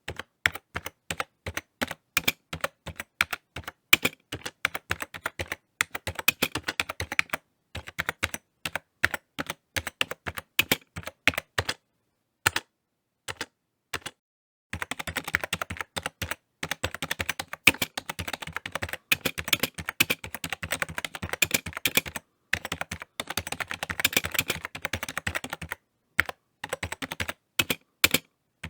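Typing on a computer keyboard: quick irregular runs of key clicks, with short pauses of a second or two between bursts, the longest about halfway through.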